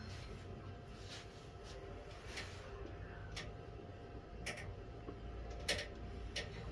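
A series of sharp light clicks or taps at irregular spacing, roughly one a second, the loudest near the end, over a steady low hum.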